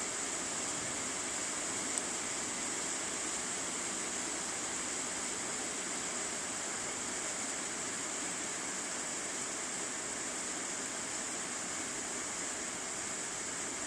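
Steady rain shower falling, an even hiss that holds level throughout, with a single brief tick about two seconds in.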